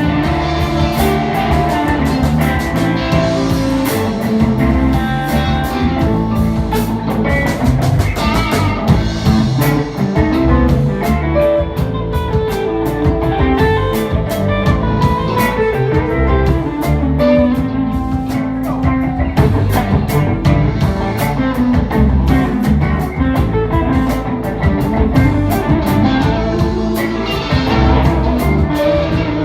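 Live blues band playing an instrumental passage: electric guitar lines over bass and drum kit with a steady beat.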